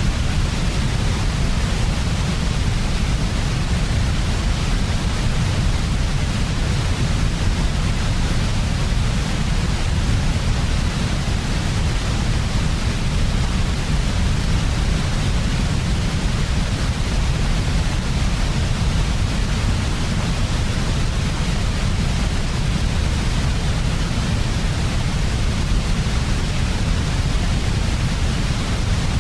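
Steady, unchanging white noise: an even hiss over a strong low rumble.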